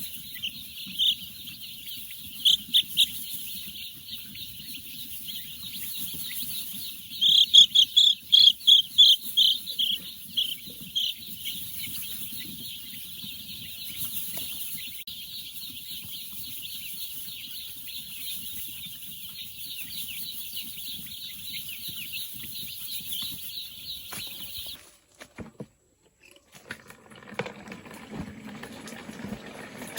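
Steady high-pitched bird chirping, with a quick run of louder chirps about 7 to 11 seconds in. The sound cuts off sharply about 25 seconds in.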